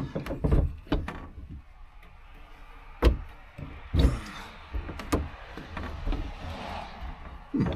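Knocks and thumps of tools and hands working at the headliner inside a 1989 Chevy pickup cab, the loudest knock about three seconds in, followed by a scraping rustle near the end.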